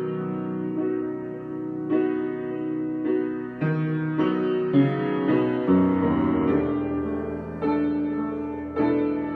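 Solo piano improvising slow, sustained chords, with new notes and bass notes struck every second or so over ringing harmony.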